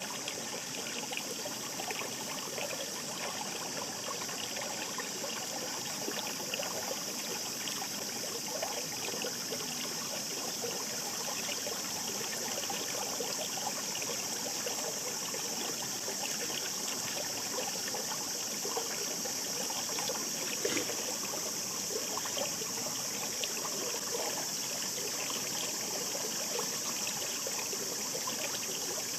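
Shallow mountain stream babbling over stones, a steady rush of water full of small splashes and trickles.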